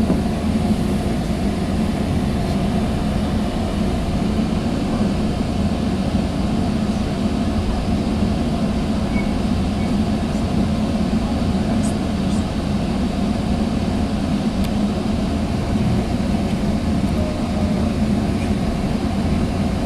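Steady rumble and hum inside a Sounder commuter train passenger car as the train rolls along the track, with a few faint ticks.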